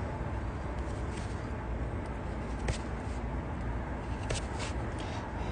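A Helle knife carving a kuksa from hard cherry wood: a few short, sharp cuts, one about a second in, one near three seconds and two close together after four seconds, over a steady background hiss and rumble.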